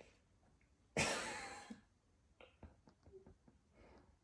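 A kitten hisses once, sharply, about a second in; the hiss lasts under a second and fades. A few faint light clicks and taps follow.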